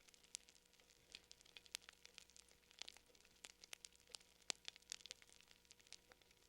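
Wood fire crackling quietly: irregular sharp pops and snaps, several a second, over a faint steady hiss.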